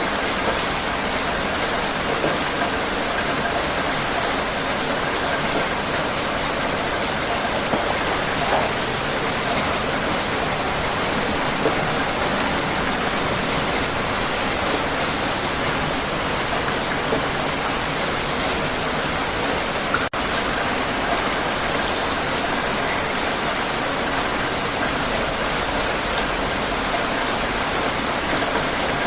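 Heavy rain falling steadily, a dense even hiss with scattered sharper drop hits. There is one momentary dropout about two-thirds of the way through.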